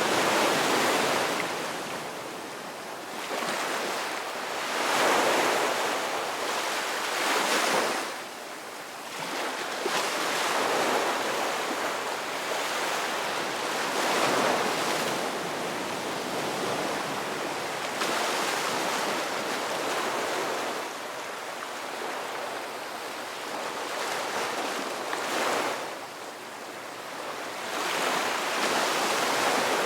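Ocean waves breaking and washing onto shore, the surf swelling and falling back every few seconds.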